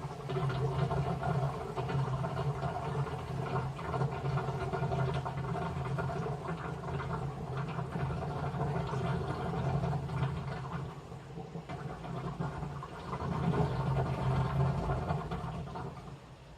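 Washing machine running a wash cycle: a steady motor hum with water sloshing in the drum. The sound dips about two-thirds of the way through, swells again, then drops away near the end.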